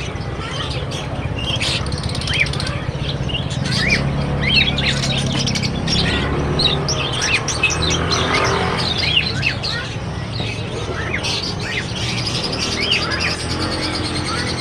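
Many small birds chirping, with quick short chirps overlapping one another, over a steady low background hum.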